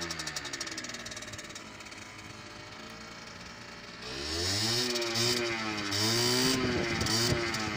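Small engine revving: the revs fall back toward idle in the first second or so and stay low, then about four seconds in they are blipped up again and waver up and down at higher revs.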